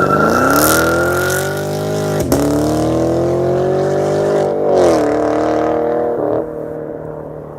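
2016 Camaro 2SS's 6.2-litre V8 with its mufflers deleted, accelerating hard. The pitch climbs, drops briefly at two upshifts about two and five seconds in, then climbs again before the sound fades away near the end.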